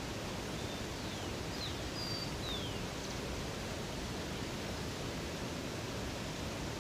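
Steady rush of flowing water, with a handful of short high bird chirps, several falling in pitch, from about half a second to three seconds in.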